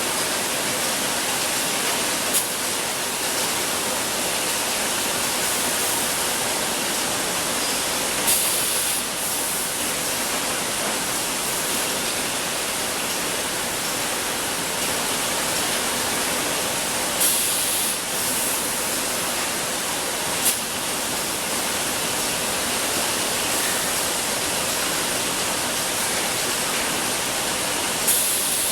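Steady hissing noise of bottled-water production-line machinery, broken a few times by short, sharper hisses.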